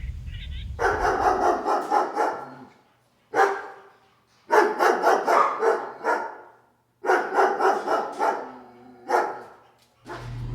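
A dog barking in rapid runs of quick barks, about five bouts with short pauses between them.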